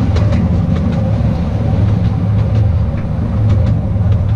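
The small narrow-gauge Artouste mountain train running along its track: a steady low rumble of the running train with scattered short clicks from the wheels on the rails.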